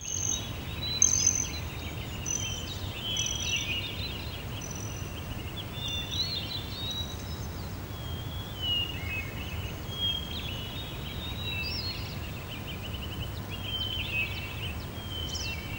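Small songbirds singing and chirping: many short calls and trills, overlapping, over a steady low background rumble.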